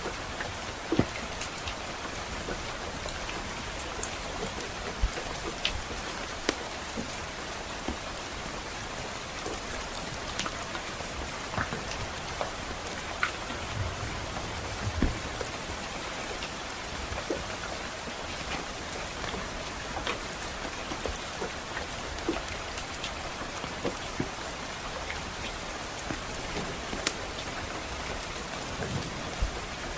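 Steady rain hissing, mixed with a crackling wood fire whose sharp pops and snaps come at irregular moments. A brief low rumble about halfway through.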